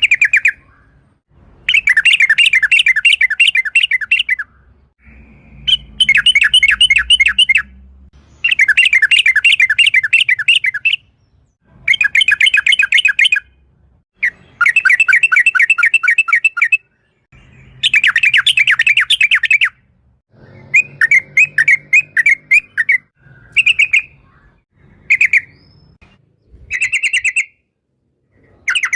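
Yellow-vented bulbul (trucuk) singing a run of fast rattling phrases, each a rapid string of repeated chirps lasting one to two seconds, with short pauses between, and a few short single calls near the end.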